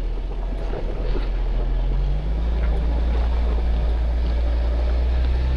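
Off-road 4x4's engine running as it crawls slowly over a rocky trail, under a steady low rumble; a low engine note comes in about two seconds in and holds.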